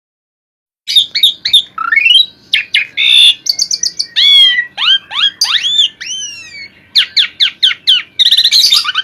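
Asian pied starling (jalak suren) in full song, starting about a second in: a loud, varied run of clear whistles, rising slurred notes, quick repeated notes and a few harsh, scratchy notes.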